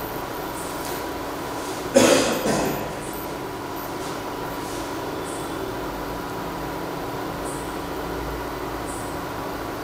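Egg-and-mutton kari dosa sizzling steadily in oil in a nonstick tawa on an induction cooktop, over a steady hum. A sudden, louder noise comes about two seconds in and fades within a second.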